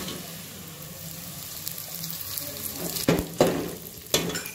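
Shredded cabbage and onions sizzling in hot oil in a metal pot, stirred with a slotted metal spatula that knocks against the pot three times in the last second and a half.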